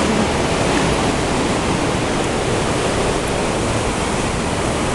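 Ocean surf washing in a steady, unbroken rush of noise.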